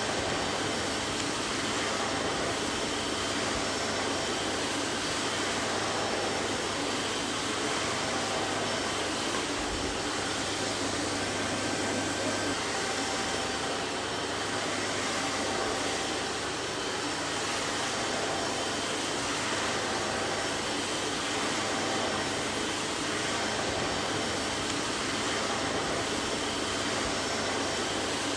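Vacuum cleaner running steadily: an even, unbroken whoosh of motor and airflow with faint steady whine tones.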